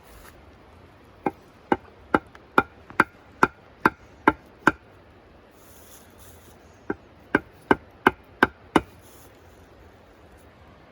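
A tool striking wood in quick, even blows, about two a second: nine strikes, a pause of about two seconds, then six more, each with a short ringing knock.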